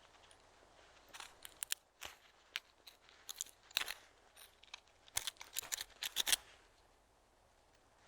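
A quick, irregular run of sharp crunches and crackles, starting about a second in and stopping about six and a half seconds in.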